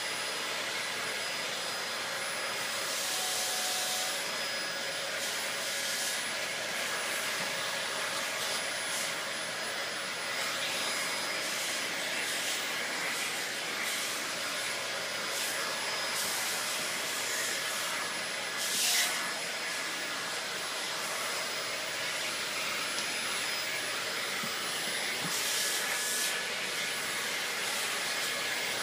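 Household vacuum cleaner running steadily with a hissing whine as it is passed over a pet's coat. The airflow surges briefly a few times, most strongly about two-thirds of the way through.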